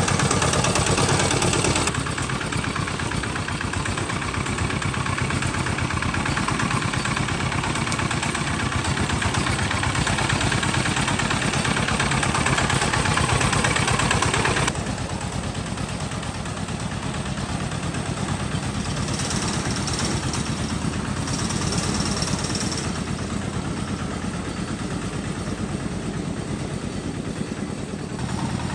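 Homemade tractor's engine running steadily with a fast, even firing pulse; the level drops abruptly about two seconds in and again about fifteen seconds in.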